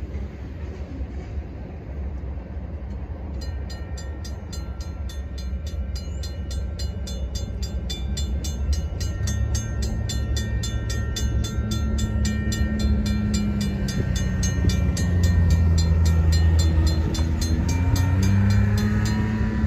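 CN freight train rumbling past on the rails, getting louder. A few seconds in, a rapid, evenly repeating crossing bell starts ringing, and a pitch-sliding tone, typical of a passing horn, comes in near the end.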